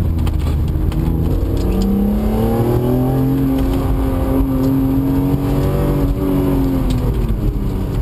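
Rally car engine heard from inside the cabin. It pulls up in pitch about two seconds in, holds steady at speed for a few seconds, then drops as the driver eases off near the end.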